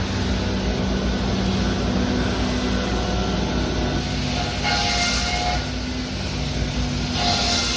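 Electric train running, a steady rumble and hum. Two short pitched tones, each about a second long, sound midway and near the end.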